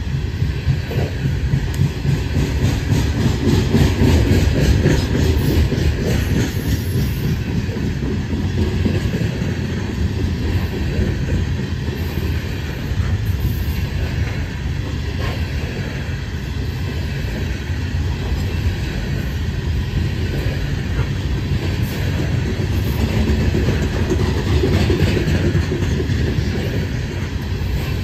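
Loaded coal train cars rolling past: a steady rumble of steel wheels on rail, with rhythmic clicking as the wheels cross the rail joints.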